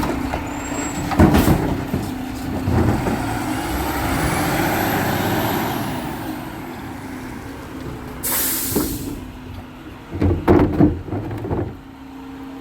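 Garbage truck running steadily, with loud metal bangs and clanks a second or two in and again near the end. A short hiss of released air, typical of a truck's air brakes, comes about eight seconds in.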